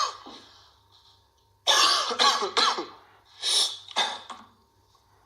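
A person coughing and clearing the throat in a series of short, loud bursts: one at the start, three close together a little under two seconds in, then two more near the end.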